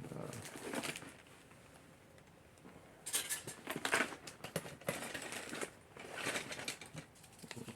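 Rustling and light clicking clatter of small objects being handled, coming in three stretches with quiet gaps between.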